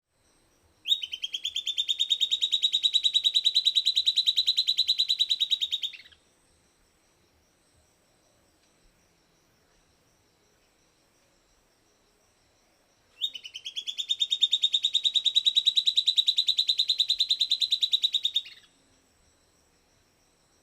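Silvered antbird singing: two songs, each a rapid, even trill lasting about five seconds that rises slightly at the start and ends abruptly.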